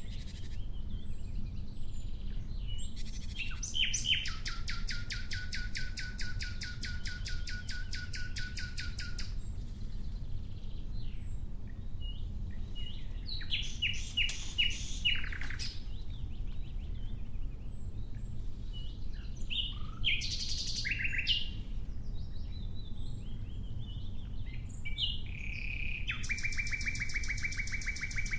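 Nightingale singing: phrases of rapid repeated notes separated by pauses of a few seconds, with a long fast series about four seconds in and another near the end. A steady low rumble runs underneath.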